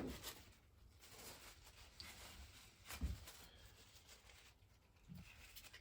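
Near silence with faint handling noises and a soft knock about three seconds in.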